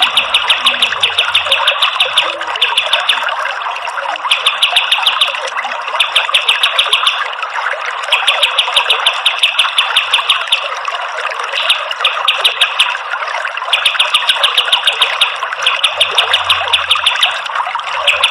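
Kapas tembak songbird singing bouts of rapid-fire repeated high notes, each burst lasting one to two seconds with short gaps, over a steady rush of running water.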